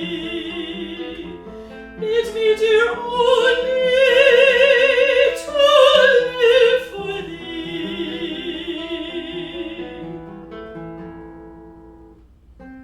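Classical art song: an operatic singer's voice with wide vibrato over plucked acoustic guitar. The voice sings a phrase, holds a long note and fades out about ten seconds in, leaving the guitar playing alone.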